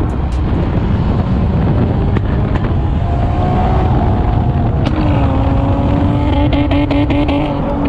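Nissan VQ-series V6 running loud through an aftermarket sport exhaust; its note climbs a little about three seconds in, then holds steady.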